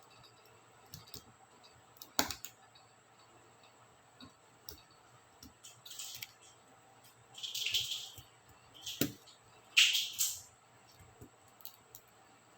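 Small plastic clicks and scrapes of laptop keyboard keycaps being worked loose, with a sharp click about two seconds in and several short scratchy rasps later on.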